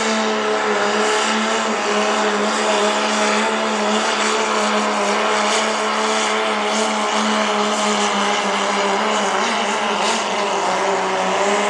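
Diesel pickup truck engine held at full throttle under the load of a pulling sled: a loud, steady drone. The pitch dips slightly about a second in and climbs a little near the end.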